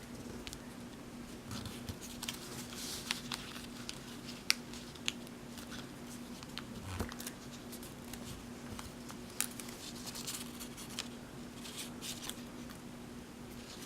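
A square sheet of paper being folded and creased by hand, with irregular crinkles, rustles and sharp crackles as the flaps are opened and reverse-folded, over a faint steady hum.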